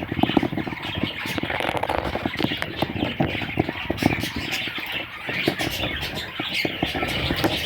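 Budgerigars chattering, a busy, continuous mix of chirps and warbles full of quick clicks.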